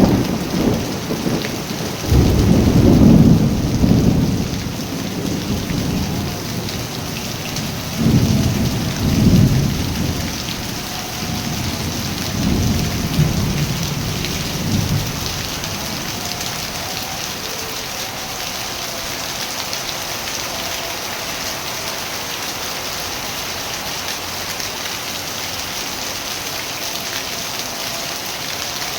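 Steady rain with rolling thunder: three deep rumbles come and go over roughly the first fifteen seconds, then the rain goes on alone.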